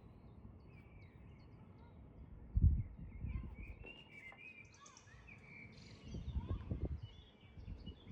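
Faint outdoor ambience with small birds chirping. About two and a half seconds in there is a low thump with a short rumble after it, and more low rumbling comes near the end.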